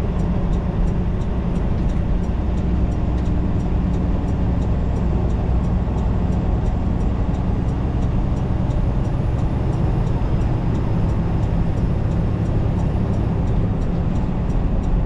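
Semi-truck's diesel engine and road noise heard inside the cab as it drives: a steady low drone with no change in pitch.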